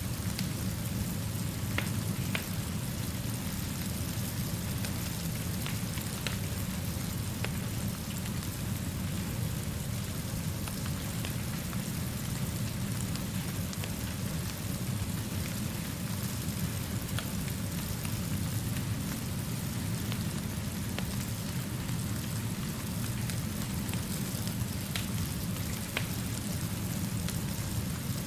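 Steady rainfall over a constant low rumble, with a few sharp crackling ticks scattered through it.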